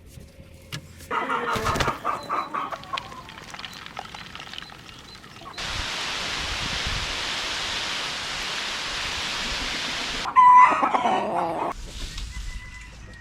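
Chickens calling: a loud call about a second in. About halfway through comes a steady rushing noise lasting some five seconds, and then another loud chicken call.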